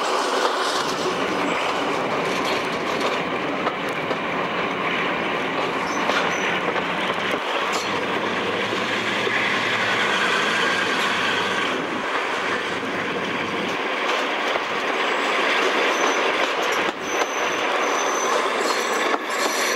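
Diesel-locomotive-hauled train running at speed, heard from an open window close behind the locomotive: steady running noise from the locomotive and its wheels on the rails. The sound changes as the train runs under a bridge about ten seconds in, and there are a few short knocks from the wheels later on.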